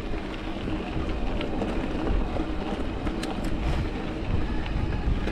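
Mountain bike rolling over rough rock: a steady rumble and rattle from the tyres and bike, with a few sharp knocks along the way.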